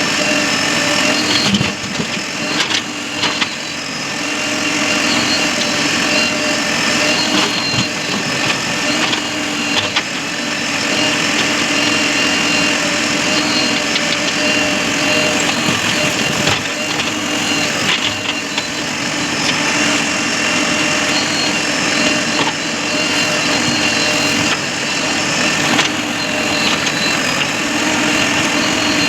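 Heavy diesel engine running steadily with a constant hum, with a few knocks a couple of seconds in.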